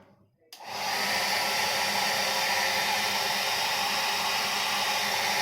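Hair dryer switched on about half a second in, then running steadily with a smooth rushing blow of air and a faint motor whine.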